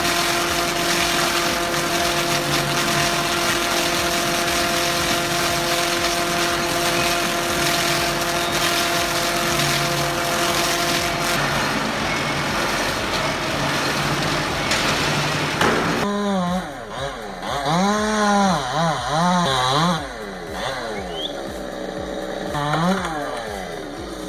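Loud machinery running steadily, with a few held tones over a dense noise. About two thirds of the way through it cuts to an engine revving up and down several times.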